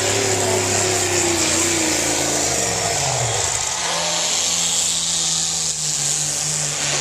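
Pulling tractor's engine running hard, its pitch falling over the first few seconds as it throttles back, then running at a lower steady pitch: the end of a pull.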